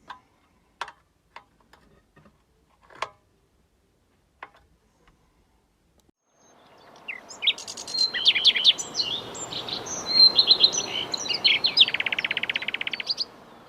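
A few sharp clicks, then from about six seconds in a bird singing over a steady background hiss: repeated high chirps and a fast trill near the end.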